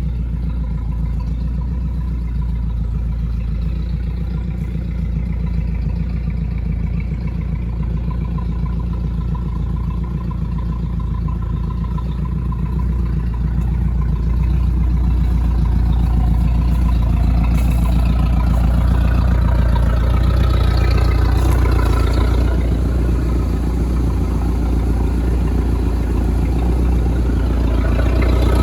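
Boat engine idling steadily while run on a garden water hose. About halfway through, a rushing noise builds and the sound grows a little louder.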